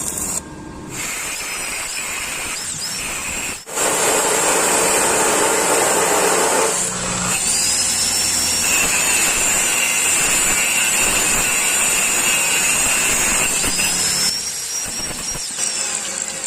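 An electric power tool running in a metalwork build, its high whine sliding in pitch as it takes and releases load. It stops briefly about three and a half seconds in and again about seven seconds in, and it winds down near the end.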